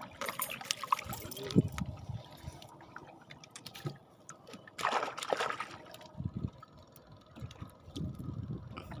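Water splashing and trickling, with scattered small knocks and one louder splash about five seconds in.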